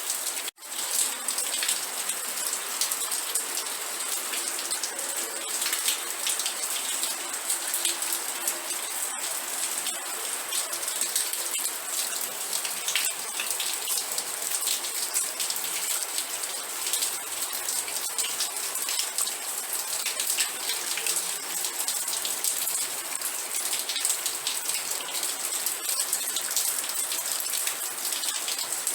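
Steady rain falling, a dense patter of individual drops hitting a surface. The sound cuts out for an instant about half a second in, then carries on unchanged.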